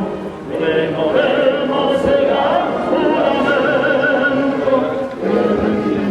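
Choral singing in an operatic, classical style: several sustained voices with vibrato.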